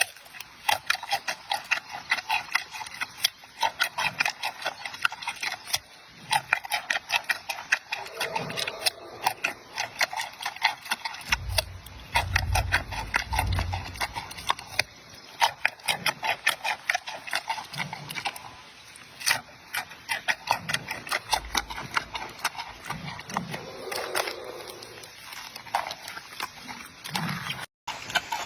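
Giant panda chewing bamboo: a fast, steady run of sharp cracks and crunches as the stalks are bitten and split, with a few deeper thuds about twelve seconds in.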